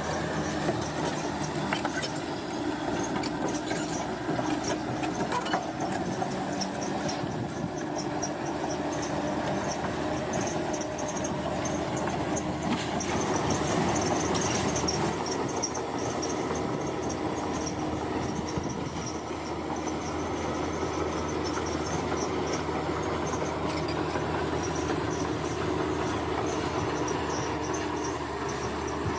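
A bulldozer's diesel engine running steadily under load, with a rapid faint clicking from its crawler tracks.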